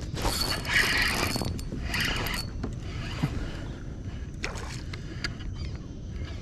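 Fishing reel turning and line running, in two loud noisy bursts in the first two and a half seconds, then a few light clicks. Wind rumbles on the microphone throughout.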